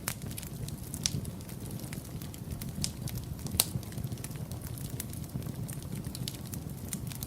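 Wood fire burning with a steady low rumble and irregular sharp crackles and pops, the loudest about three and a half seconds in.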